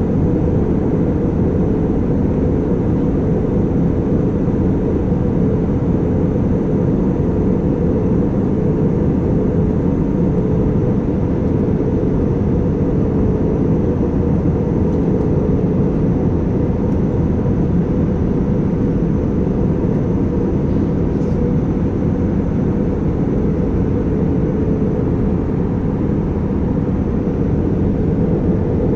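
Steady airliner cabin noise in flight: a constant drone of jet engines and rushing air, with a steady hum running through it.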